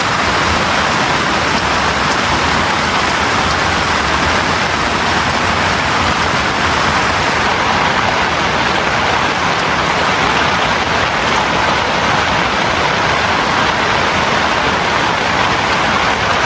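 Heavy rain falling steadily: a dense, even hiss that holds without a break.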